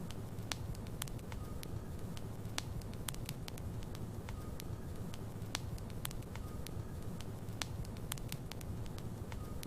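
Logs burning in a fireplace: a steady low rumble of flame with frequent, irregular sharp crackles and pops from the wood.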